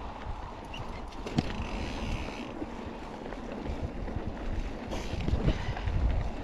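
Wind buffeting the microphone while a mountain bike rolls over a rocky dirt trail, with tyre noise and scattered sharp knocks and rattles from the bike. The loudest knock comes about a second and a half in.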